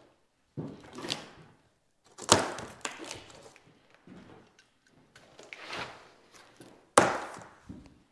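Plywood cabinet panels being handled and set down while a flat-pack cabinet box is unpacked: a series of wooden thunks and knocks, the sharpest about two seconds in and again near the end.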